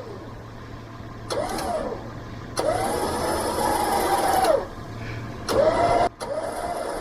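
Badlands Apex 12000 lb electric winch motor whining in four spurts, each starting with a quick rise in pitch and then holding steady, the last running on to the end.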